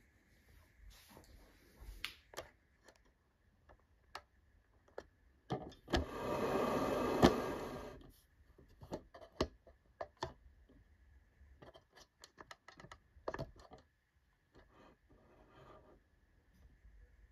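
Freshly lit wood fire of elder kindling and alder crackling in a stove, with scattered sharp pops. About six seconds in, a louder scraping rush lasts a couple of seconds and ends with a sharp knock.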